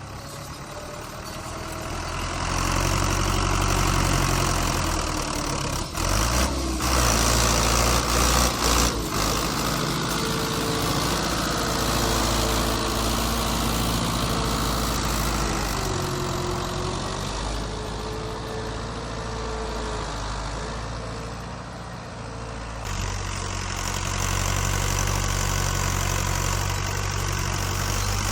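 Fiat 640 tractor's diesel engine running, its sound shifting in level and pitch, with a few sharp knocks a few seconds in and abrupt changes about a third of the way through, past the middle and near the end.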